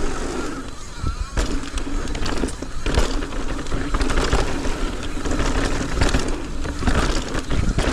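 Mountain bike riding fast down a dirt trail: wind buffeting the microphone with a steady low rumble, tyres rolling on dirt, and the bike's frame and chain rattling, with frequent knocks over bumps and landings.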